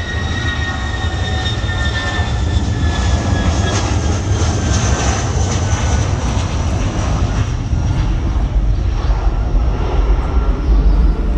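Jet airliner's engines at takeoff power: a loud low rumble that builds slightly, with a high whine that slowly falls in pitch.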